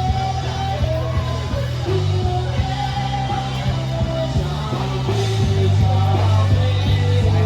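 Live rock band playing, with electric guitar over a steady bass and drums.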